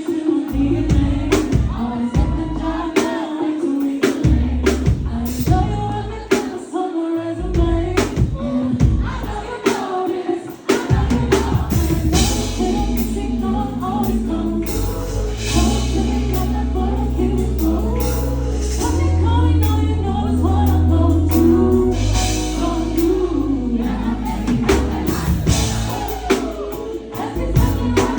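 Live pop/R&B concert music: a woman singing lead over a band with heavy sustained bass and drums, heard loud through a crowd-level recording.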